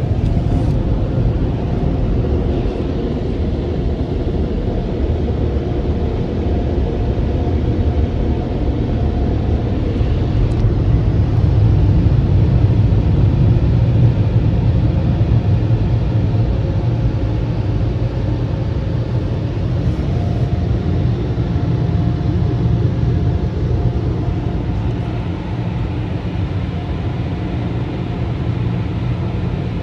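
Automatic car wash machinery running, heard from inside the car as a steady low rumble and hum that swells slightly midway.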